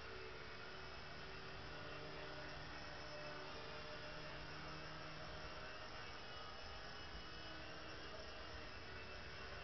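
Mini three-channel RC helicopter's small electric motors and rotors running with a faint, steady hum, the pitch shifting slightly now and then.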